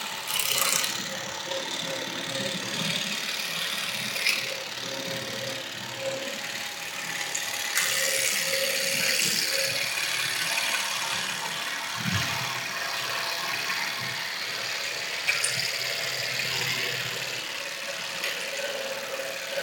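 Gear train and clutches of the Torres Quevedo El Ajedrecista chess automaton running: a steady mechanical whirr and rattle with a few sharp clicks.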